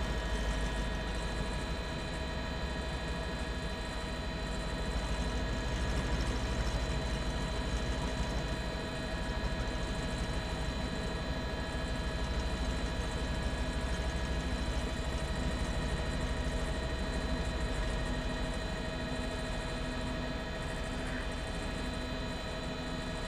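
Steady drone of a news helicopter heard from on board: a constant rumble with several fixed, unchanging whining tones.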